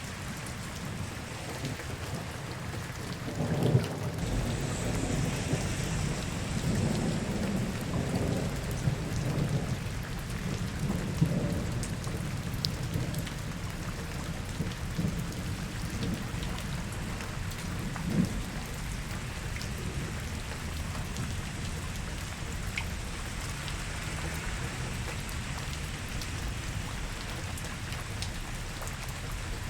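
Steady rain falling on city streets, with a low rolling rumble that builds a few seconds in and dies away after several seconds.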